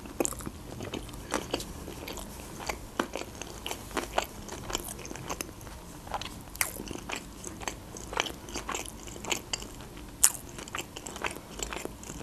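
A person chewing a mouthful of baked sushi roll: a run of irregular wet mouth clicks and soft crunches.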